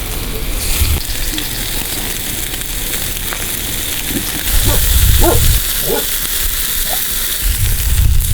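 Wood campfire hissing and crackling with food sizzling over it. A few short chirps come midway, and wind rumbles on the microphone now and then.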